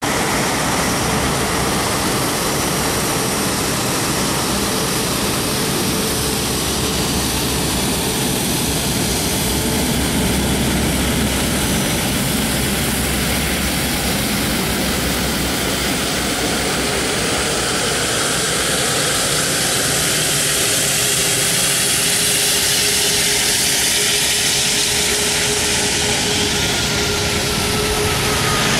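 Airbus A340-600's four Rolls-Royce Trent 556 turbofans at takeoff thrust: a loud, steady jet noise with a high whine, growing slightly louder, and a tone that falls in pitch near the end as the aircraft passes.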